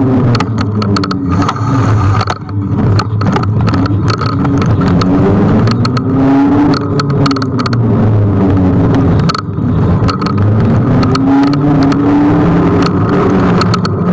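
Kugoo G1 electric scooter on the move: the motor's whine rises and falls in pitch as it speeds up and slows, over a steady hum, with many short knocks and rattles from bumps in the riding surface.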